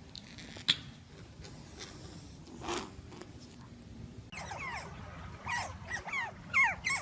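Dog whimpering: a run of short high whines, each sliding down in pitch, starting a little past halfway. Earlier there is a single sharp click.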